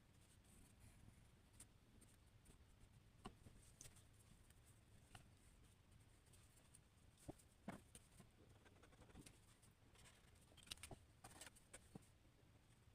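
Faint scratching of a drawing tool on paper, with scattered light taps and short strokes over a low steady room hum.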